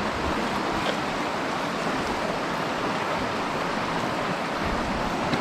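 Fast mountain stream rushing over rocks and gravel: a steady, even rush of running water.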